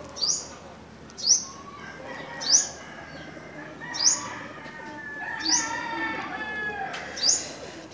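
A bird repeating a short, high chirp that falls in pitch, six times, about one and a half seconds apart. A fainter, longer call with several tones runs under it from about four to seven seconds in.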